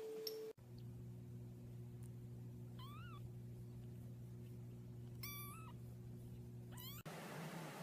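A domestic cat meowing three short times, each call rising and falling, over a steady low hum.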